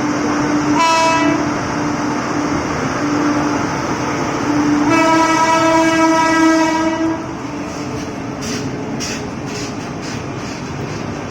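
Indian Railways WAG-9 electric locomotive sounding its horn: a short blast about a second in, then a long blast from about five to seven seconds, over the steady noise of the passing train. After the horn stops, the train's wheels click over the rail joints.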